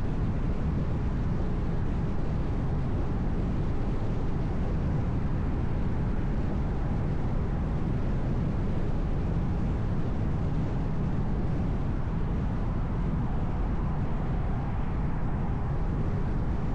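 A car driving along, with a steady, even rumble of road and engine noise and no distinct events.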